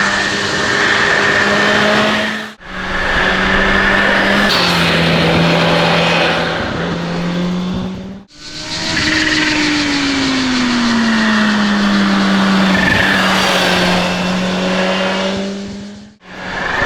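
Kawasaki Z H2's supercharged inline-four engine running under way, in several short clips spliced together. The engine note holds steady, drops once about four and a half seconds in, and glides down over a few seconds near the middle, with a steady high whine above it.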